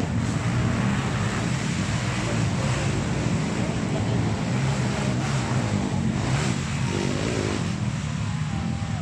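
Motocross bike engines running, mixed with a steady rushing noise.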